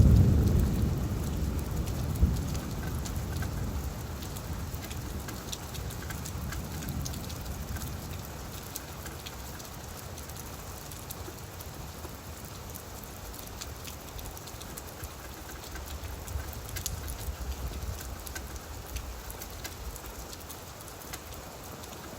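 Steady rain falling on leaves, with the patter of separate drops. A low roll of thunder fades away over the first few seconds.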